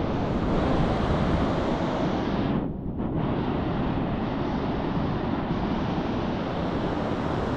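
Ocean surf washing steadily on a beach, with wind buffeting the microphone; the rush briefly dulls about three seconds in.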